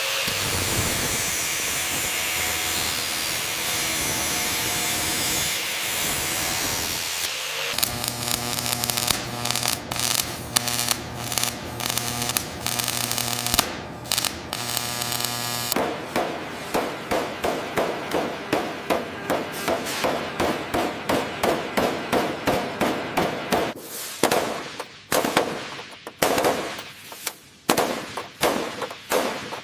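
A steady rushing hiss for the first several seconds, then a low hum with scattered sharp knocks, turning after about half the time into a fast, even series of sharp knocks, about two to three a second.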